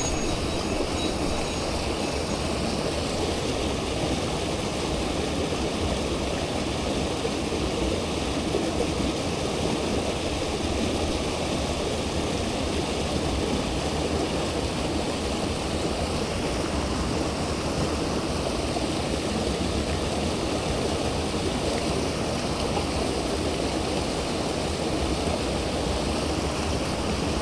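Mountain stream rushing over rocks: a steady, unbroken rush of flowing water.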